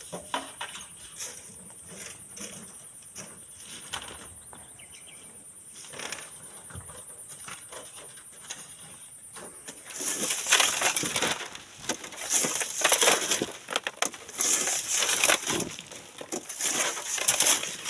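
Gritty crunching and scraping of sand and stones, starting suddenly about ten seconds in and going on in loud repeated bursts. Before that there are only scattered small clicks over a steady high-pitched tone.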